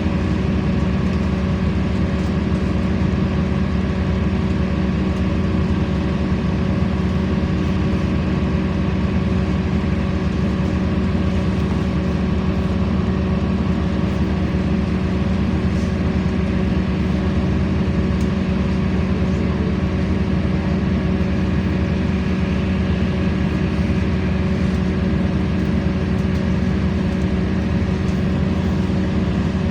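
LiAZ-5292.65 city bus's diesel engine running with a steady, even drone, heard from inside the passenger cabin.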